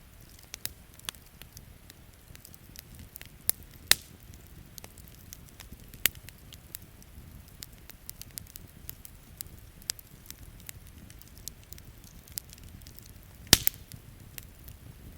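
Wood campfire crackling, with irregular sharp pops and snaps and one loudest pop near the end, over a low steady rumble.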